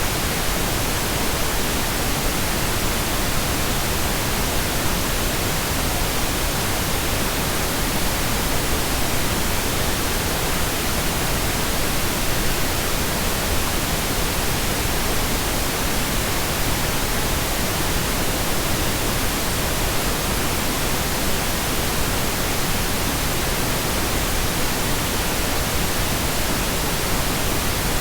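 Steady, unchanging pink noise: an even hiss across all frequencies, deeper and softer than white noise.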